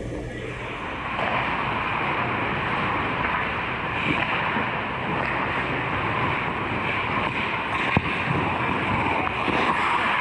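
Steady noisy hiss of an ice hockey game in play, with one sharp crack about eight seconds in.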